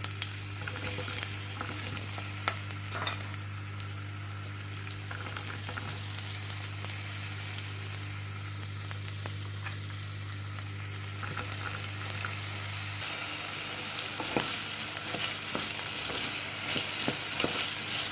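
Potatoes and crushed garlic frying in olive oil in a pan: a steady sizzle with occasional short clicks. A low steady hum stops about two-thirds of the way through.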